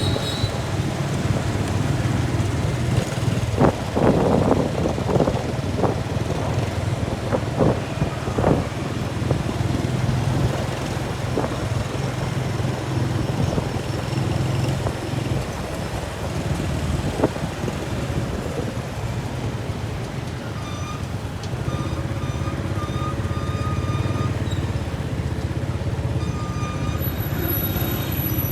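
Motor vehicle engine running steadily in traffic, with a run of short knocks and rattles from about four to nine seconds in.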